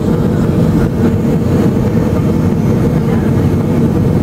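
Steady cabin noise inside a Boeing 757 during its arrival: the low rush of jet engines and airflow, with a faint steady hum.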